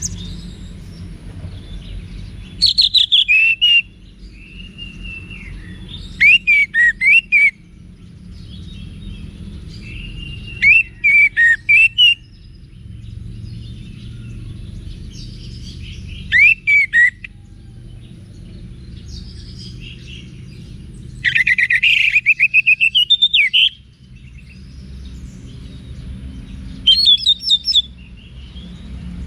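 Orange-headed thrush singing in short, loud phrases of quick gliding whistles and trills, one every four or five seconds, with a longer trilled phrase about three-quarters of the way through. A low steady rumble runs underneath.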